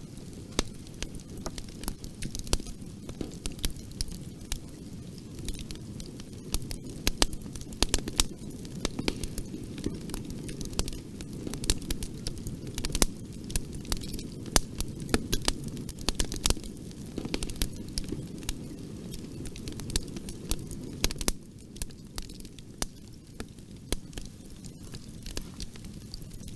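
Wood fire in a fireplace burning and crackling: a steady low rumble of flame with many sharp, irregular pops and snaps of burning wood.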